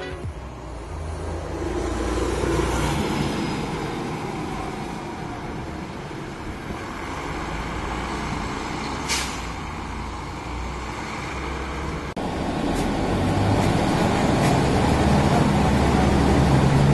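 Mercedes-Benz O405N city bus running, its diesel engine and air conditioning heard together as a steady hum and rush. About twelve seconds in, the engine grows louder as the bus pulls harder.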